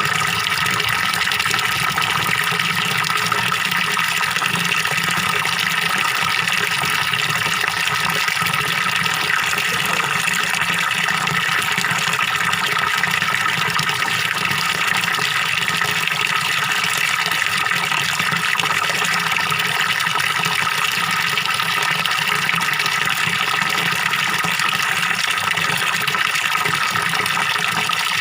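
Small waterfall pouring steadily into a pond: a continuous gurgling rush of falling, splashing water.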